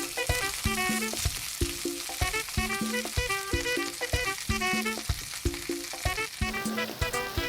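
Pork belly sizzling on a hot grill, under background music: a repeating plucked melody over a steady beat.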